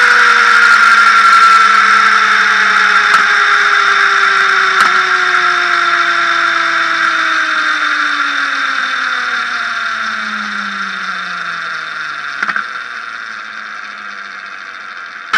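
Motorcycle front sprocket area giving a high-pitched squeal over a lower mechanical whine that slides slowly down in pitch as the drive slows, fading gradually, with a few sharp clicks along the way. It is the unexplained noise the owner is tracing to the front sprocket.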